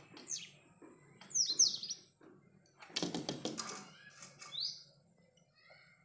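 A small bird calling in sharp, high, falling chirps, a quick run of them about a second and a half in and a single one near the end. Between them comes a second or so of rapid rustling.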